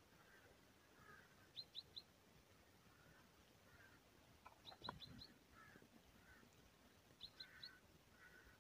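Faint bird chirps in the quiet: small groups of three or four quick high notes every two to three seconds, with softer calls lower in pitch between them. A soft knock comes about five seconds in.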